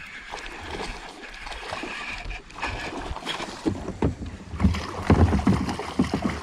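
Knocks and thumps on a small kayak as a hooked bass is fought and brought aboard. The first half is quiet, and from about halfway the bumps come thick and loud.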